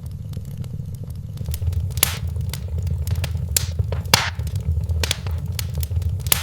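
Wood fire in a fireplace crackling, with a steady low rumble of the flames under a scatter of small clicks and a few louder pops about two, four and six seconds in.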